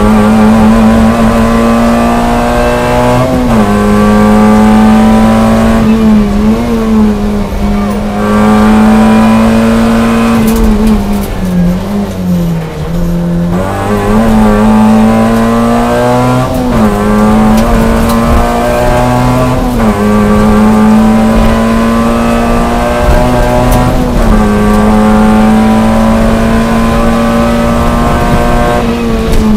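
Toyota Yaris A5 rally car's engine at high revs, heard from inside the cabin under hard acceleration. The revs dip slightly and climb again every few seconds. They fall away further for a couple of seconds around the middle before picking up again.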